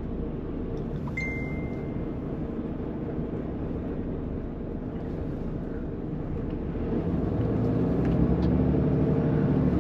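Lorry engine and road noise drone heard from inside the cab, growing louder from about seven seconds in as the engine pulls harder. A short high beep sounds once about a second in.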